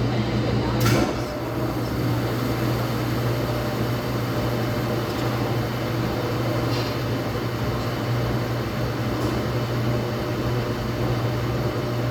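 Laundromat washing machine running with a steady low hum, with a sharp click about a second in.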